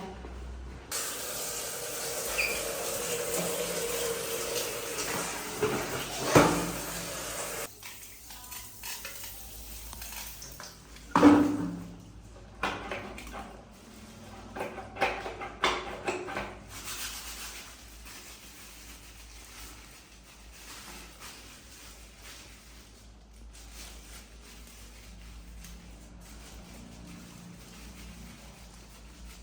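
Water running from a tap with an even hiss, which cuts off suddenly after several seconds, with a few knocks and clatters of items being handled, as for washing.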